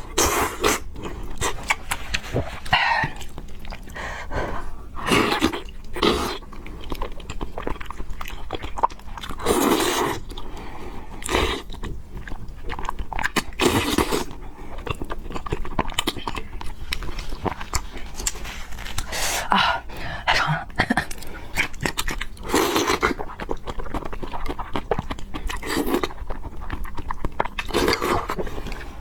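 A person eating noodles and pork close to the microphone: chewing and biting with many small wet clicks, and a louder short rush every few seconds.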